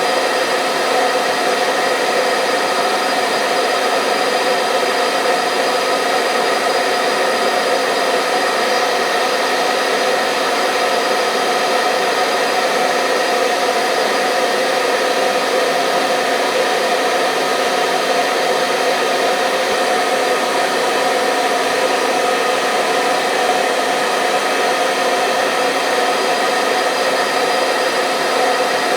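Hair dryer running steadily: an even rush of air with a constant motor whine through it, unchanging throughout.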